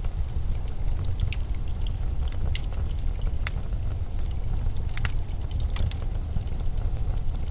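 Blizzard wind as a steady low rumble, with scattered sharp crackles throughout.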